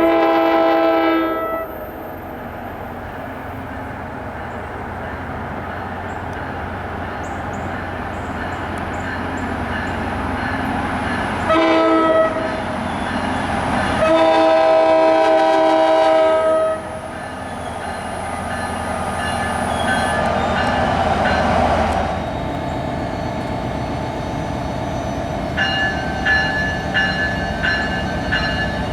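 Train horn sounding a multi-note chord for the grade crossing: a blast at the start, a short blast about twelve seconds in, then a long blast of about three seconds, over the growing rumble of the approaching train. A rapid, even ringing starts near the end.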